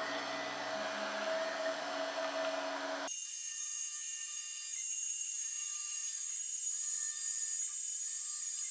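Arduino-controlled CNC router engraving plexiglass: the spindle motor runs steadily while the stepper motors move the bit, giving short, changing pitched whines. About three seconds in, the sound changes abruptly and the low end drops out, leaving a thin high whine with the stepper tones.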